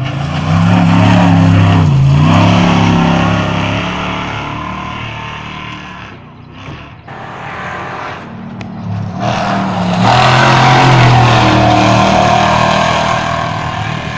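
Two off-road race trucks pass by one after another, engines at high revs. Each swells to loud and fades away: the first goes by about a second in, the second about ten seconds in.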